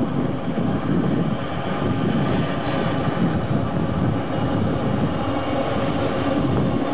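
Aérospatiale AS355F2 Twin Squirrel helicopter running steadily, the low beat of its rotor under a steady whine from its twin turbine engines.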